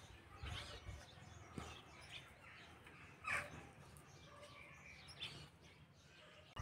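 Faint bird chirps, with one louder, short, falling call about halfway through.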